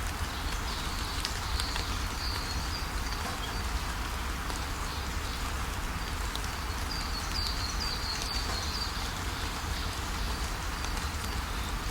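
Steady rain hiss with small birds chirping through it, a quick run of short high chirps about seven seconds in.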